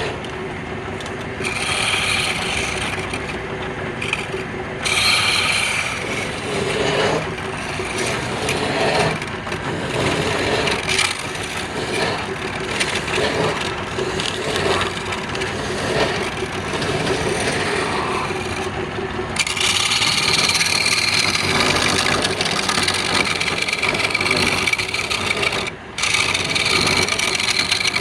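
Wood lathe running while a spinning piece of wood is worked, a continuous scraping, rasping sound that comes in uneven strokes over a steady machine tone. From about two-thirds of the way in the scraping turns sharper and brighter, with a short break near the end.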